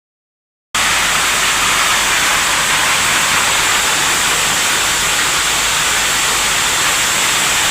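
Heavy rain pouring down in a steady, loud hiss, cutting in suddenly less than a second in.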